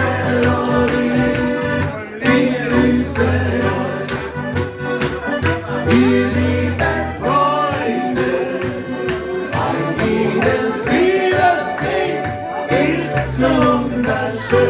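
Live band music: an upbeat song with a steady bass line and a sustained, bending melody, with some singing.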